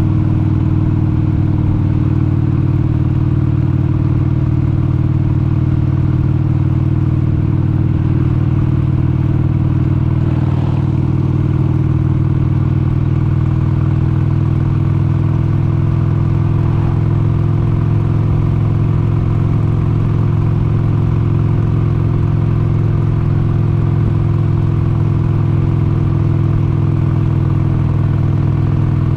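1996 Harley-Davidson XLH883 Sportster's air-cooled 883 cc Evolution V-twin running steadily, its engine note holding an even pitch.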